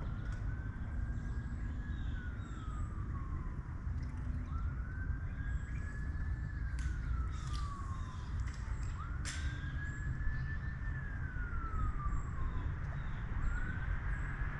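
Emergency vehicle siren on a slow wail: a single tone rising quickly, holding, then sliding down, repeating about every four and a half seconds. Underneath is a steady low rumble, and there are a few sharp clicks in the middle.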